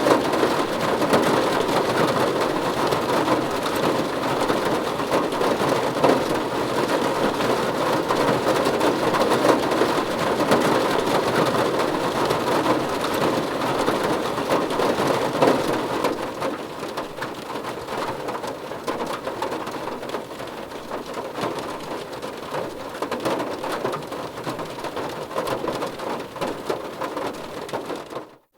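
Steady rain falling on a car's roof and windows, heard from inside the car. The rain eases a little about halfway through, and the sound drops out for a moment right at the end.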